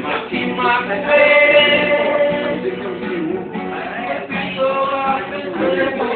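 Voices singing held notes over a strummed acoustic guitar, with a short break about three and a half seconds in.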